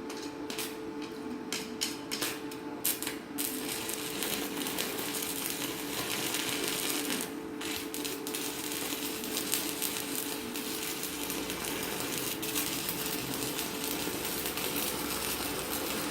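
Stick (SMAW) arc welding with a 4.0 mm electrode on a Chinshui 160ARC inverter welder: the arc crackles and sizzles, sputtering in short bursts for the first three seconds or so before settling into a continuous crackle.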